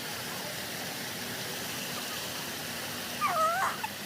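Steady rushing noise like running water, with a single squawking bird call that wavers in pitch about three seconds in.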